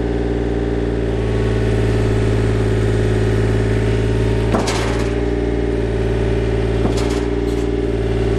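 Mini excavator's diesel engine running steadily, with a few sharp knocks from the machine partway through.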